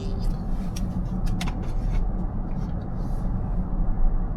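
Steady road and engine rumble of a car cruising on the highway, heard from inside the cabin, with a few faint ticks in the first couple of seconds.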